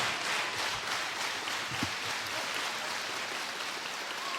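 Arena crowd noise at a pro wrestling match: a steady wash of applause and crowd murmur.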